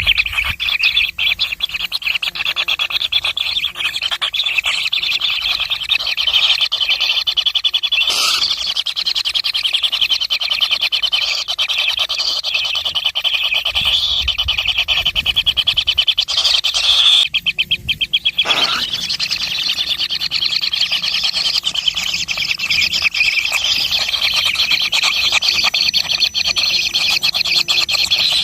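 Many small birds chirping in a dense, rapid, unbroken high-pitched chatter, with one brief break in the middle.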